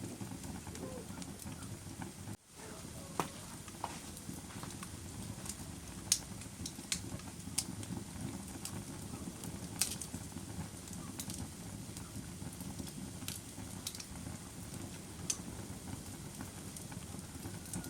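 Fire crackling: a steady low rush of flames with sharp pops scattered irregularly through it. The sound cuts out for an instant about two seconds in.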